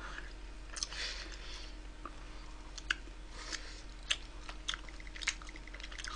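Chewing and biting into wood-fired roast chicken close to the microphone, with scattered sharp clicks of mouth and teeth.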